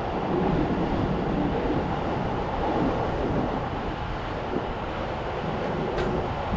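Steady rumbling noise of a train running at a station, with a single sharp click about six seconds in.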